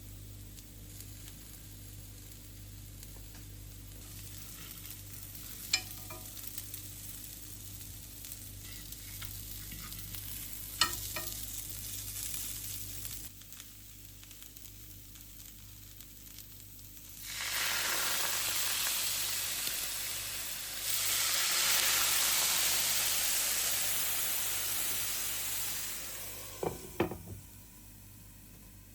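Food frying and sizzling in a pan, with a couple of sharp clicks of a utensil against it. About two-thirds of the way in, the hiss grows much louder for several seconds and then fades, and a few clinks follow near the end.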